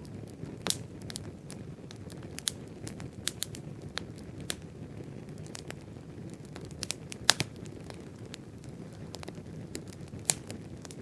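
Wood campfire crackling, with irregular sharp pops and snaps over a steady low rush of burning; the loudest pop comes about seven seconds in.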